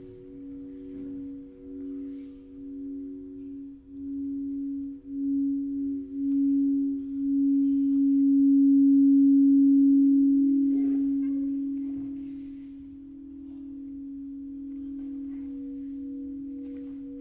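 Sustained ringing tones: a few steady pure pitches held together, pulsing slightly, swelling to their loudest about halfway and then fading back to a softer hum.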